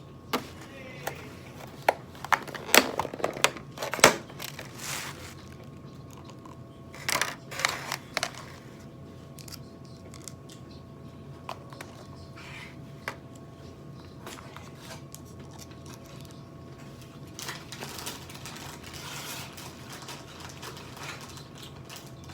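Eating sounds: sharp clicks and taps of a utensil against a food container, densest in the first eight seconds and sparser after, over a faint steady hum.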